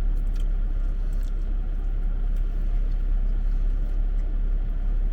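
Steady low rumble of a car, unchanging throughout, with a few faint small ticks over it.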